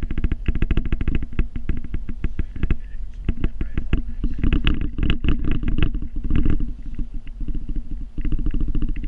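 Engine of the vehicle working a snow plow, running with a fast, even pulsing beat that swells and eases, strongest from about halfway through.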